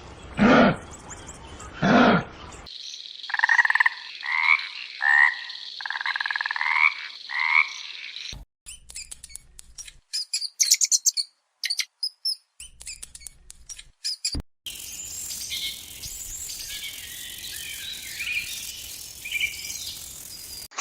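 A run of different animal calls, cut one after another. First come three loud calls falling in pitch, then about six short calls rising in pitch, then rapid high clicks and chirps, and last a high chirping over a steady hiss.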